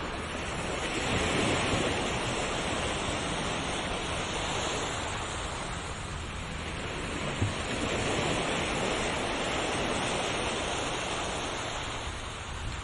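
Ocean surf, a steady wash of waves that swells up twice, with a short low thump about seven seconds in.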